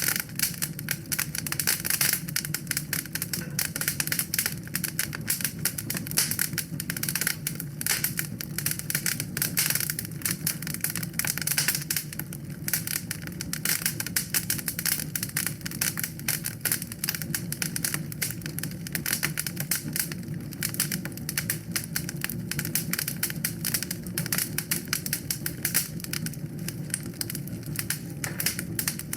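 Wood fire in a fireplace crackling and popping continuously, dense irregular snaps over a low steady hiss of the flames.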